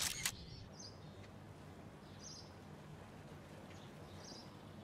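Two sharp clicks in quick succession at the very start, then quiet outdoor ambience with a few short, high bird chirps spaced a second or two apart.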